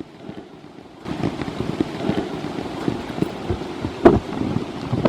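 Rain falling, a dense crackle of drops that grows louder about a second in. One sharper, louder knock comes about four seconds in.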